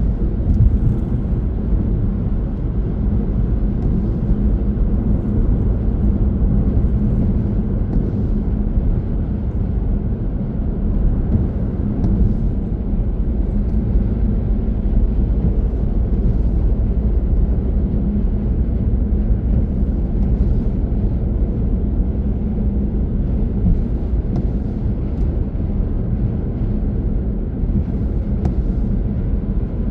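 Car driving at speed: a steady low rumble of tyre, road and engine noise.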